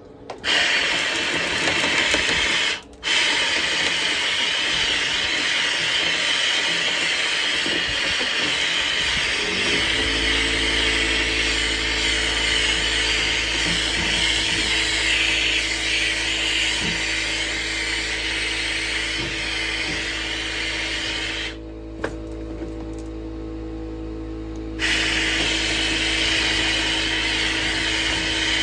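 Power drill running steadily, spinning a rotary brush through a dryer vent duct to loosen packed lint. It cuts out briefly near the start and eases off for a few seconds near the end, and about ten seconds in a second motor with a steady low hum starts and keeps running underneath.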